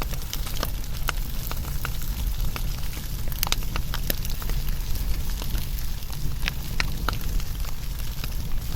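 Burning wood fire crackling: irregular sharp pops and snaps over a low, steady rumble of the flames.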